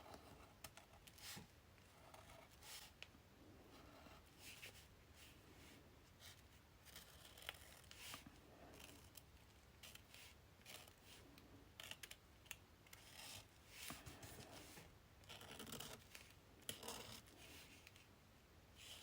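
Faint pen scratching on paper in short, irregular strokes, busier for a few seconds near the end, as lines are drawn.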